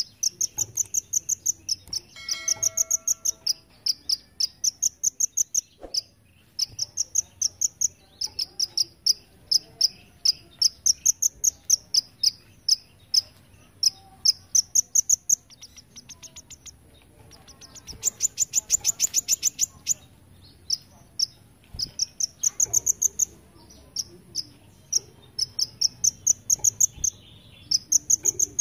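Kolibri ninja sunbird singing its insect-like 'belalang emas' song: long runs of short, sharp, very high chirps, about two or three a second, with a faster, buzzier run about two-thirds through.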